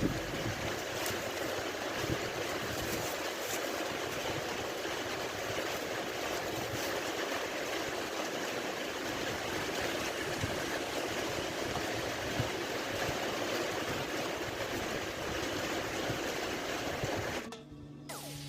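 Heavy rain pouring down steadily as an even hiss with scattered faint patters. It cuts off abruptly about a second before the end.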